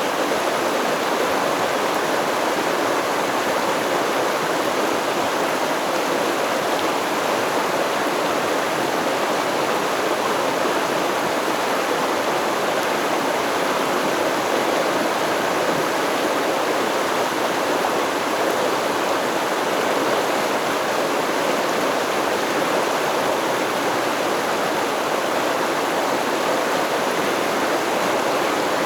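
Stream water flowing and babbling over rocks in a steady, even rush.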